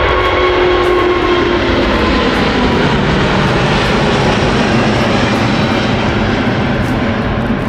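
Aircraft engines running loud and steady as an airliner passes close. A whine in the noise falls slightly in pitch and fades in the first two seconds.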